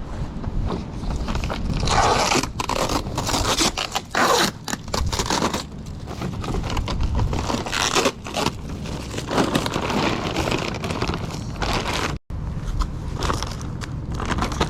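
Packaging being handled and pulled open: irregular scraping, crinkling and tearing, with a sudden brief break about twelve seconds in.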